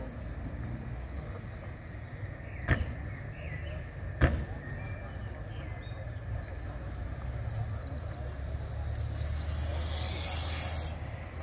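Steady low rumble of car engines running, with faint voices. Two sharp knocks come about a second and a half apart, the first a few seconds in. A short hiss follows near the end.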